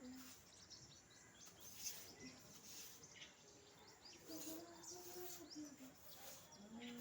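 Small birds chirping faintly, with short high chirps scattered throughout. A low, drawn-out pitched sound comes about four seconds in and again near the end.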